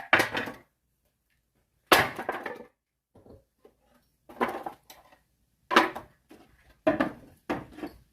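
Axe splitting firewood: six sharp chopping hits at irregular spacing, each with a short crack of wood.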